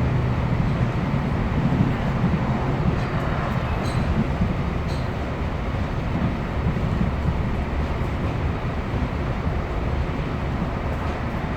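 Class 156 diesel multiple unit heard from on board, its underfloor Cummins diesel engine running steadily under wheel and rail noise. The engine note drops lower about halfway through.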